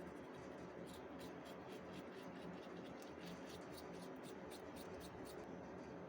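Faint, quick scratching strokes, about four or five a second, starting about a second in and stopping shortly before the end, over a steady low hum.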